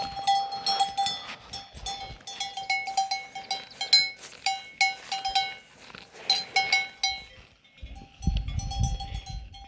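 Several livestock bells clanking irregularly, with overlapping ringing strokes. A dull low rumble comes in near the end.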